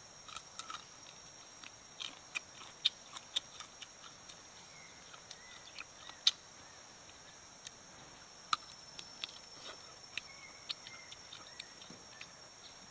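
Steady high-pitched drone of rainforest insects, with scattered sharp clicks and ticks throughout, the loudest a little after six seconds.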